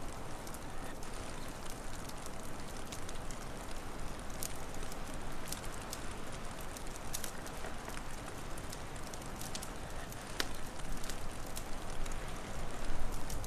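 Wood fire crackling, with scattered sharp pops over a steady hiss and rumble that grows a little louder near the end.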